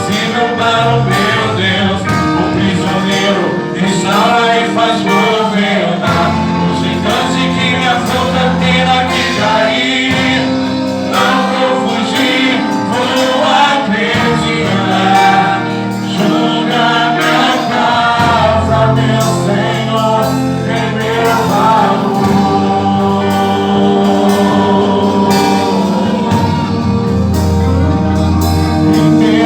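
Live gospel worship music: a band playing with a choir or group of singers, continuing throughout.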